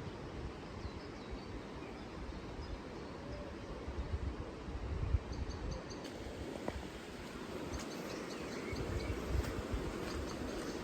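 Outdoor ambience: gusty wind rumbling on the microphone, with faint bird chirps and insects chirping.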